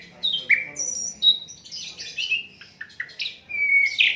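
A sikatan londo (a flycatcher) singing a fast, varied song of short chirps, sweeping notes and brief held whistles, with a dense run of notes near the end.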